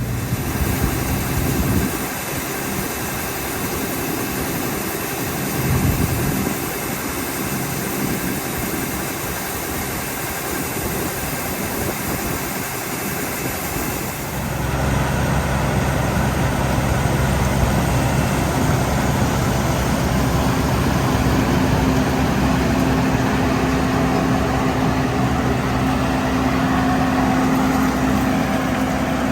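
Combine harvester running steadily during corn harvest. About halfway through the sound changes abruptly to a steadier, deeper engine hum with a steady tone over it.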